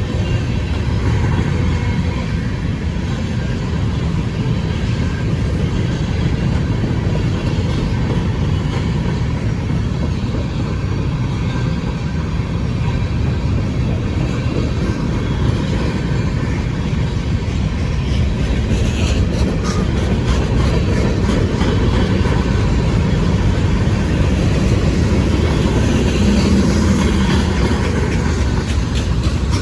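Train with diesel locomotives running on the rails, a steady heavy low sound throughout with a few scattered clicks.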